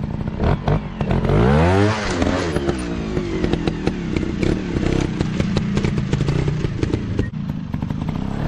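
Dirt bike engine revving, its pitch climbing steeply about a second in, then running on at a steadier pitch, with scattered clicks and clatter throughout.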